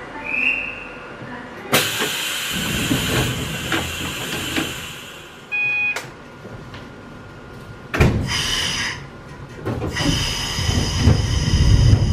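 Hakone Tozan Railway Moha 1-class electric railcar at a station: sudden bursts of air hiss with low rumbling, and a short electronic beep around the middle. The low running rumble of the car grows near the end.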